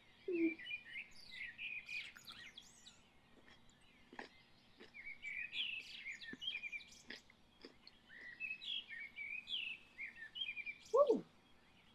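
Small songbirds chirping and twittering in quick short calls, with a few faint clicks scattered through. A short falling tone, the loudest sound, comes near the end.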